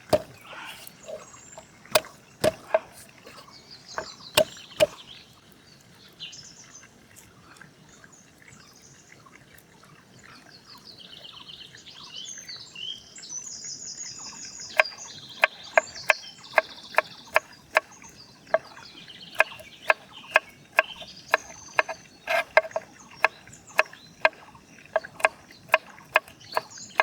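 Knife chopping on a wooden cutting board: a few scattered strokes, then steady chopping at about two strokes a second from about halfway through. Birds sing throughout.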